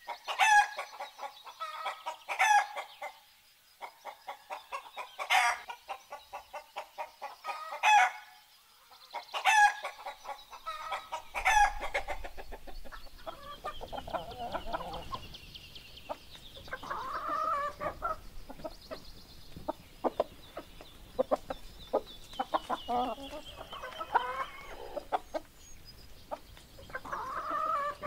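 Domestic chickens clucking, with loud sharp calls every couple of seconds and quick runs of clucks between them. From about twelve seconds in the clucking becomes softer and more scattered over a faint low rumble.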